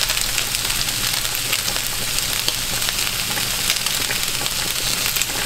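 Chicken pieces sizzling and crackling steadily in a hot frying pan.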